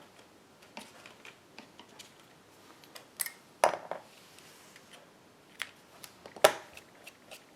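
Small clicks and knocks of craft tools and supplies being handled on a tabletop, likely while looking for scissors, with two louder knocks about three and a half and six and a half seconds in.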